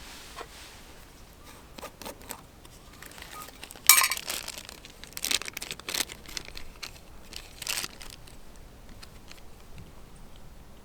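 Crinkling and rustling of something being handled, with a sharp crackle about four seconds in and more scattered crackles over the next few seconds.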